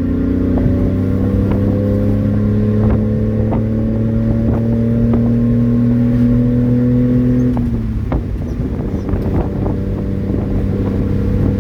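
1994 Honda Acty truck's 660cc three-cylinder engine running with a slowly rising pitch, then falling to a lower, slightly quieter note about seven and a half seconds in. Its raspy exhaust note comes from a significant exhaust leak just before the muffler.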